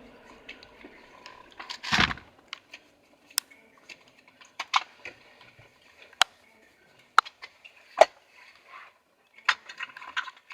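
Scattered clicks, taps and knocks of objects being handled inside a car cabin, with one louder thump about two seconds in, as the driver searches for a misplaced car key.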